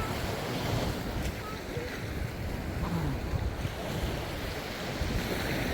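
Wind buffeting the microphone in a steady, gusty rumble over the wash of surf on a beach.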